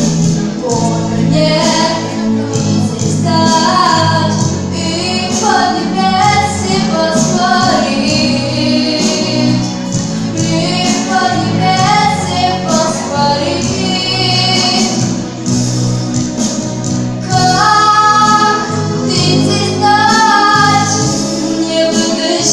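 A female voice singing a melodic song over an instrumental backing with a steady bass line.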